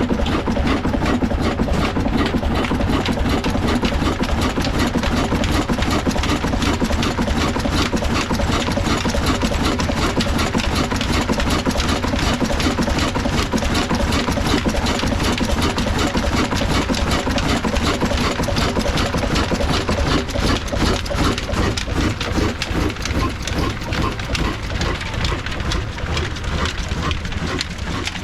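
Old black desi diesel engine running steadily with a fast, regular beat. The beat stands out more clearly in the last several seconds.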